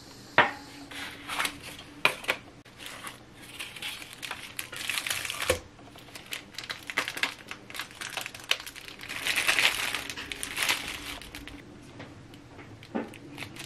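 Food packaging crinkling while being handled, with scattered light clicks and knocks of kitchen things being set down, with the loudest stretches of crinkling about four seconds in and again about nine seconds in.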